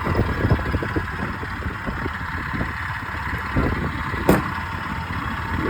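Honda Gyro Canopy scooter engine idling with an uneven low pulsing, and one sharp click about four seconds in; this engine is known to make an abnormal noise.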